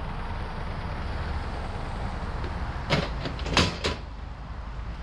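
Mini excavator's engine running steadily at a low rumble, with a few sharp knocks and rattles about three seconds in and again a moment later.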